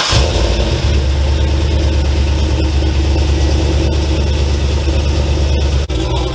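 Freshly tuned Cadillac 6.0-litre V8 just started and idling loudly with a steady low rumble. The sound dips briefly near the end.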